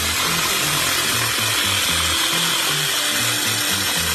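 DeWalt jigsaw cutting composite decking along a curve, its blade making a steady, hissing cutting noise.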